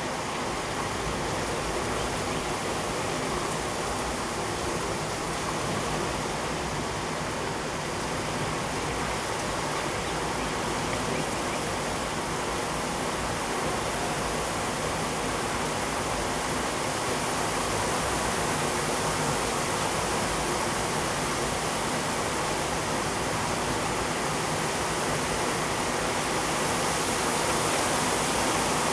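Torrential thunderstorm rain pouring down in a steady, dense hiss that grows slightly louder toward the end.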